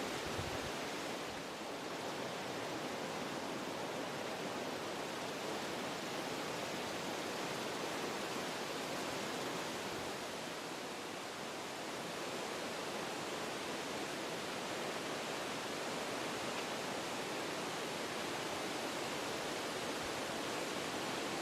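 Wind blowing steadily through forest trees, a continuous rushing that eases slightly a couple of times.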